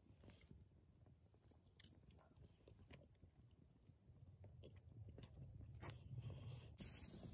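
Faint, close chewing and biting of roast chicken, with soft scattered clicks over a low rumble; a hiss of noise comes in near the end.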